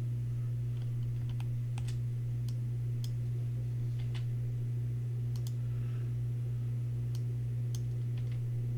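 Scattered computer keyboard and mouse clicks, about a dozen at irregular intervals, over a steady low hum.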